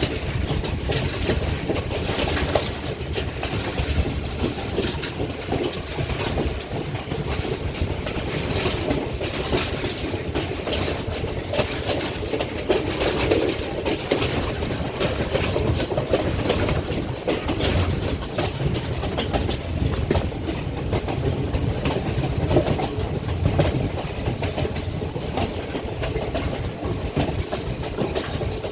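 Passenger train running steadily, its wheels clacking irregularly over the rail joints with a continuous rumble.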